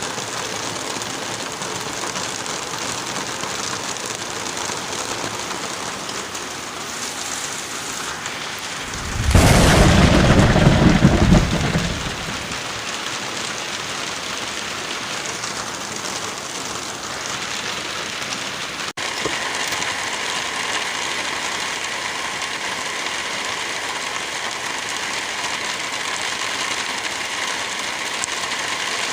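Steady rainfall with a single loud, deep thunderclap about a third of the way through, rumbling for around three seconds before the rain carries on alone.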